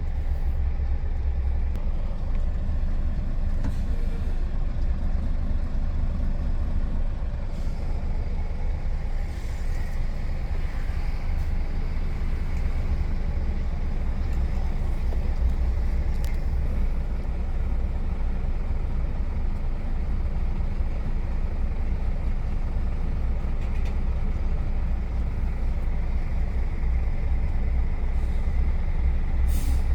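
Container truck driving on the highway, its diesel engine droning steadily under road noise as heard from the driver's seat, with a couple of faint clicks.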